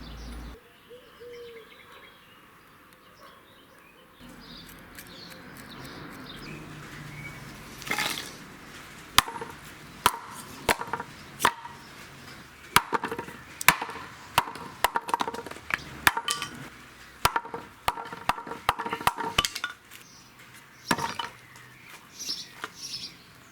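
Axe chopping into wood. It starts quiet, then about eight seconds in comes a long, uneven run of sharp chops and knocks, often about two a second.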